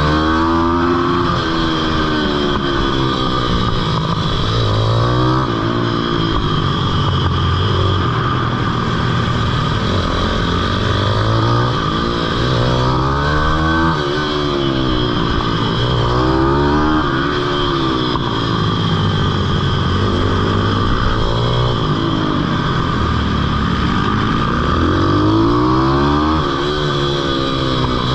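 Pitbike engine revving hard, its pitch climbing and falling again and again as the bike accelerates and backs off around the track.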